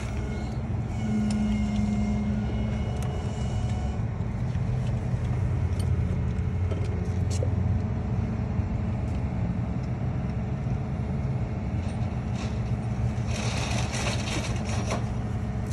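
Big-turbo Toyota Supra 2JZ straight-six on E85, idling steadily. A short burst of hiss comes near the end.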